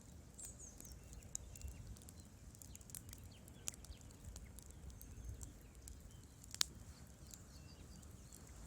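Wood fire crackling in a fireplace: irregular sharp crackles and pops over a low steady rumble of the flames, with one louder pop about six and a half seconds in.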